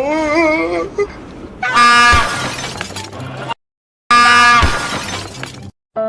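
Two loud, steady train-horn blasts, each just under two seconds long, separated by a brief dropout.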